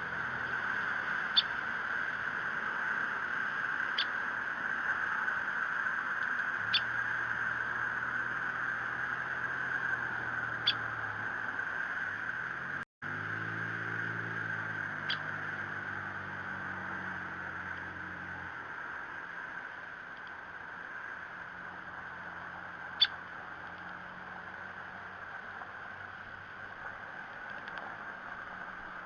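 Downy woodpecker giving single sharp, high "pik" calls, about six of them spaced a few seconds apart, over a steady hiss and a faint low drone.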